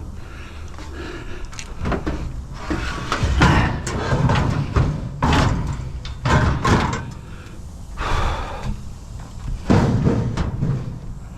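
Irregular thumps, knocks and clattering of curbside scrap being handled and shoved into place, with several louder bangs a few seconds in and again near the end.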